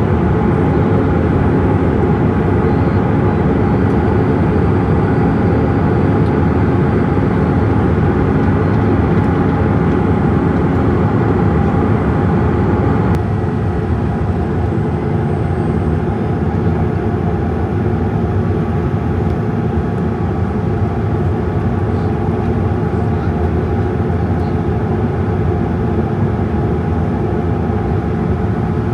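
Boeing 787-8 Dreamliner cabin noise: the steady drone of the jet engines and airflow heard from inside the cabin. It steps down slightly in level about halfway through.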